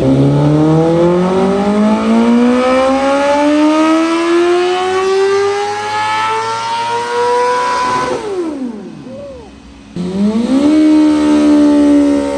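Sport-bike engine at full throttle on a chassis dyno, its revs climbing steadily through a long pull for about eight seconds. The throttle then snaps shut and the revs fall away. About two seconds later an engine comes back in abruptly at a steady, high pitch.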